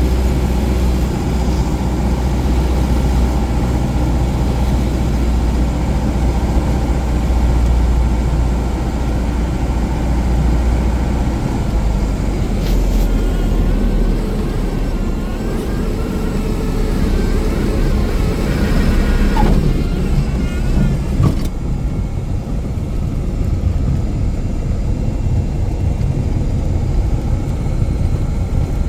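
Steady drone of a Cessna 177 Cardinal's piston engine and propeller in flight, a low hum with an even hiss over it. The hiss drops off suddenly about two-thirds of the way through.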